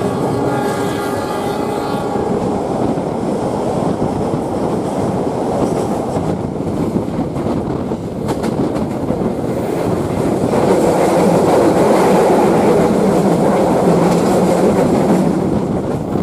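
A train's horn sounding and cutting off about two seconds in, then the steady rumble and clatter of the passenger train's wheels running over the rails, getting louder about ten seconds in.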